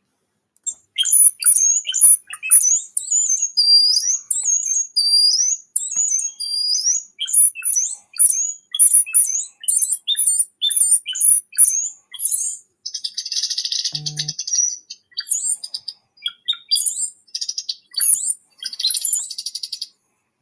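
A songbird singing a long, varied run of rapid high chirps and whistled phrases, with a harsher, buzzy stretch about two-thirds of the way through.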